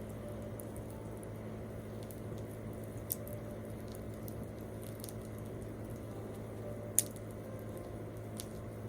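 Wood campfire crackling, with scattered sharp pops, the loudest about seven seconds in, over a steady low hum.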